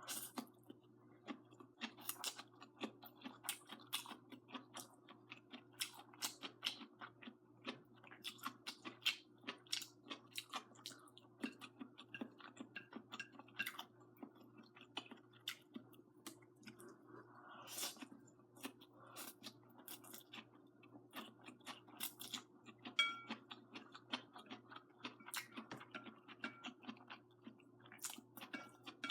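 Close-up eating sounds: chewing of braised noodles with string beans, with many soft irregular mouth clicks and smacks. A faint steady hum runs underneath.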